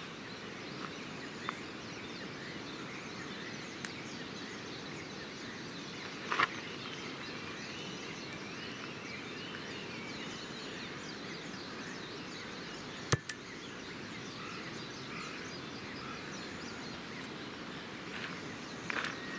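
Wood campfire burning with a steady crackle and a few sharp pops, the loudest about 13 seconds in, with faint bird chirps behind.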